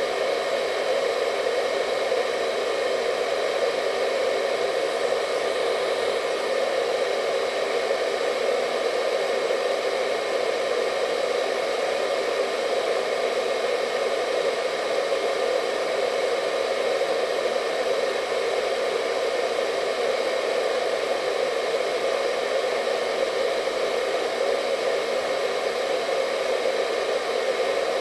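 Electric hair dryer running steadily: an even fan-and-airflow hiss with a faint high whine, unchanging throughout.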